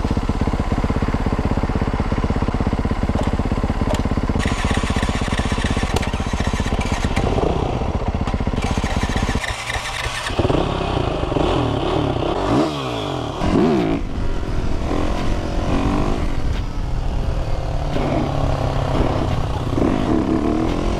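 Motorcycle engine running under way, with wind noise on the microphone. It holds a steady drone for about nine seconds, dips briefly as the throttle closes, then the engine note rises and falls again and again as the bike speeds up and slows down.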